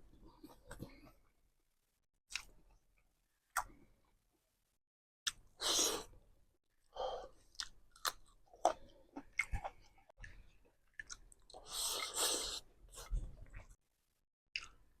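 A person chewing food close to the microphone: irregular mouth and chewing sounds in short bursts separated by quiet pauses.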